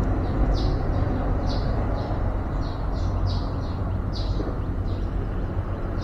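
Small birds chirping: short, high, falling chirps, about one or two a second, over a steady low rumble.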